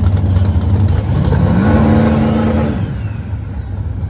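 Vehicle engines running with a steady low rumble. About a second in, one engine revs up, holds its revs briefly, then falls away just before three seconds.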